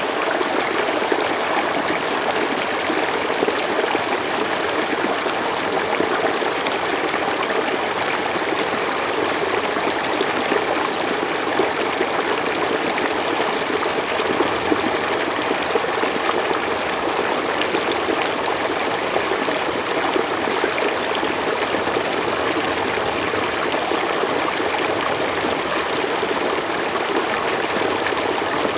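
River water flowing steadily over rocks, a continuous even rush with light trickling.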